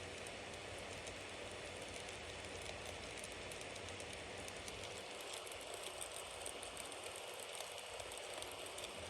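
Bonfire burning: a steady hiss of flames with many small crackles and pops from the wood.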